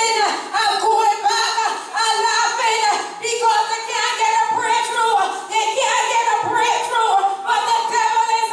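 Voices singing a church song, mostly women's voices, with no clear instrumental backing: a choir or congregation singing in sustained, bending phrases.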